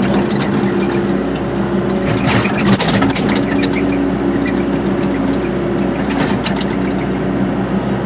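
Excavator's diesel engine running steadily under load, with bursts of clattering about two seconds in and again around six seconds.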